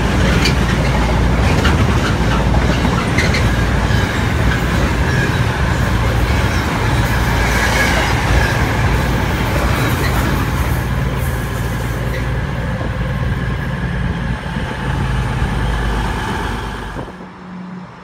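Train hauled by Class 86 electric locomotives running through the station close by: a loud, steady rumble of wheels on rail with a low hum. It fades slightly and then cuts off sharply near the end.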